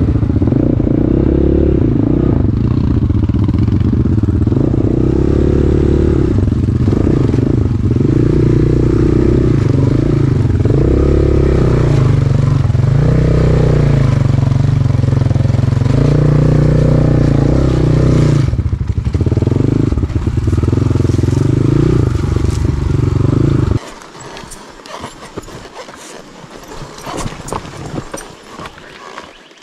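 Dirt bike engine running close by, its revs rising and falling as it climbs the trail. About three-quarters of the way through it cuts off abruptly, leaving quieter scattered clicks and knocks.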